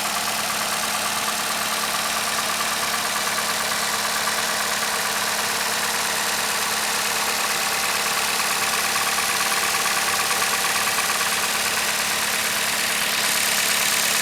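2025 Toyota Camry's 2.5-litre four-cylinder engine idling steadily, a constant hum under a hissy whir, growing slightly louder near the end.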